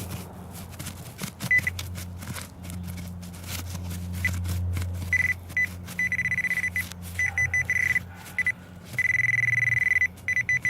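Garrett Pro Pointer pinpointer beeping as it is worked over a buried penny. It gives short scattered beeps at first, then beeps faster and merges into a near-continuous tone about halfway through as it closes on the target. A steady low hum runs underneath.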